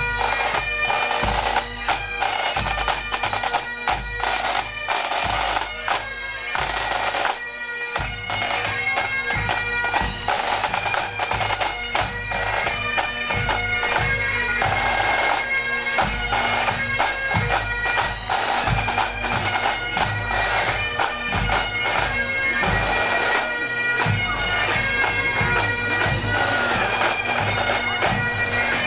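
Massed Highland bagpipes playing a march tune over their steady drones, with the band's drums beating the time.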